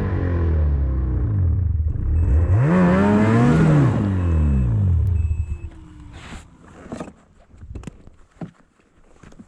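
Engine pulling under load, revving up and back down once, then falling away about five and a half seconds in. After that come scattered crunches and knocks.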